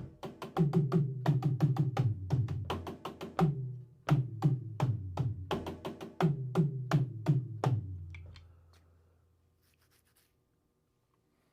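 Drum kit played in quick runs of strokes, several a second, with the low ring of the toms and bass drum under each hit. The playing stops about eight seconds in and the drums ring out into quiet.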